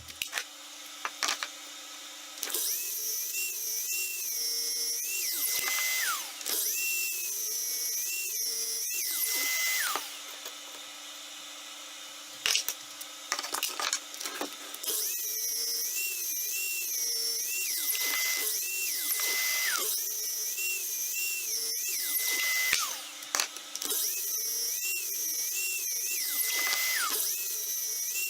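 Power drill running in repeated bursts of a few seconds, its high whine wavering in pitch, holding steady, then winding down as the trigger is let go.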